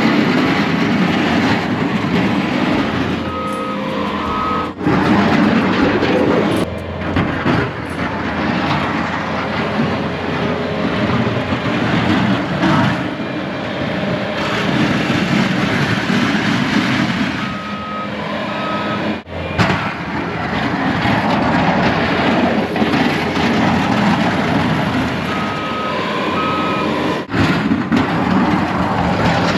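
Plow truck running while working snow, with a reversing alarm sounding two short beeps three times as it backs up.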